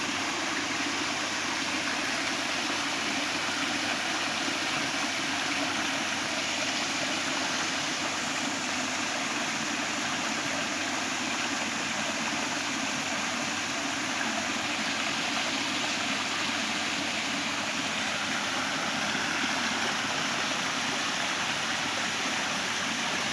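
Small garden waterfall: water falling and splashing steadily over porous sponge-stone rock.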